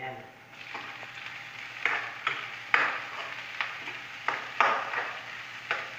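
Sliced bell pepper dropped into hot oil in a wok of frying onion, sizzling at once. It is then stirred, with a spatula scraping and knocking against the pan several times over the steady sizzle.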